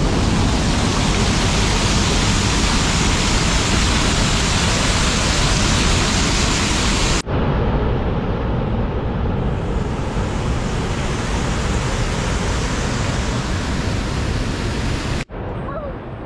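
Waterfall heard from close underneath: a loud, steady rush of falling water. It breaks off for an instant about seven seconds in, and again near the end, after which it is quieter.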